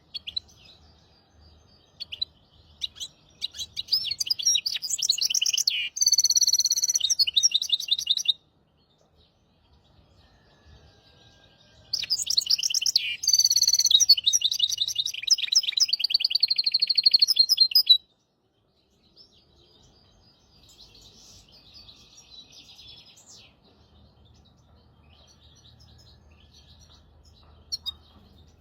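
Goldfinch × canary hybrid (mule) singing: two long loud song phrases of fast trills and twittering, each lasting about five seconds, separated by a short pause, then softer twittering.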